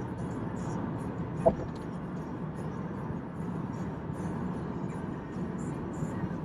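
Steady low rumble of a car's engine and road noise heard inside the cabin while driving, with one short sharp click about a second and a half in.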